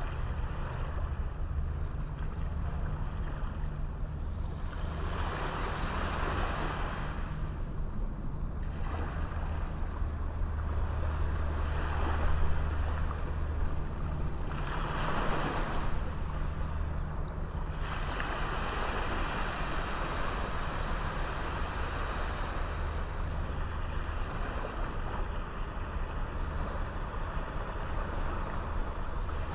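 Small waves breaking and washing up a beach, in several surges, over a steady low rumble.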